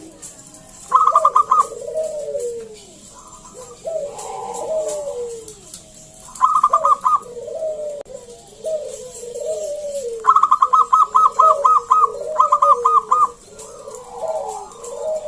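Zebra dove (perkutut) calling: repeated rolling coos, broken three times by loud runs of rapid clipped higher notes, the longest near the end.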